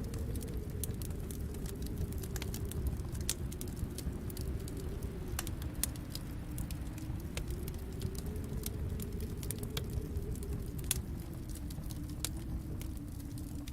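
Wood fire crackling in a fireplace: frequent short, sharp snaps and pops over a steady low rumble.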